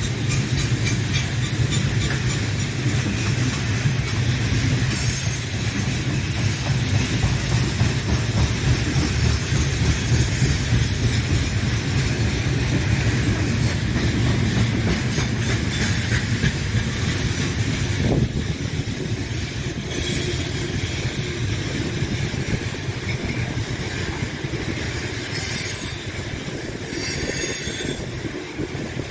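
Freight train wagons rolling past: a steady heavy rumble of steel wheels on rail with clicking over rail joints and several short high squeals from the wheels in the curve. A single sharp knock about two-thirds of the way through, after which the rumble is a little quieter.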